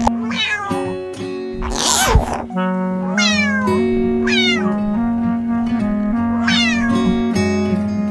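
A cat meowing four times, each meow a falling call, over gentle background music. A short noisy burst comes about two seconds in.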